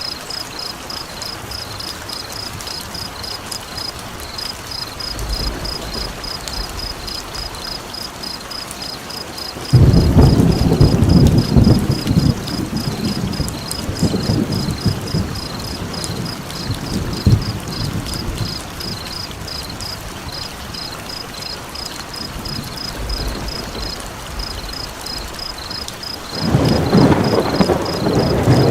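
Steady rain with thunder rumbling twice: a sudden loud roll about a third of the way in that fades over several seconds, and another near the end. A high, evenly repeating chirp continues throughout.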